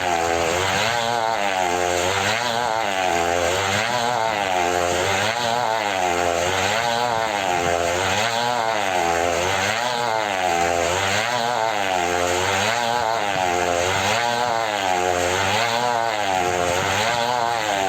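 Two-stroke engine running steadily, its pitch swinging up and down evenly about once a second.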